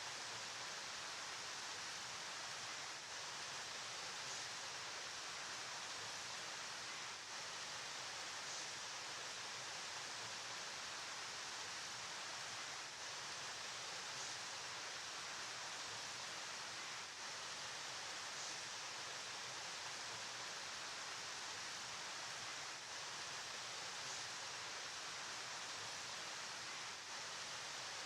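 River water flowing in a steady, even hiss, heavier in the higher range, with no distinct splashes or changes.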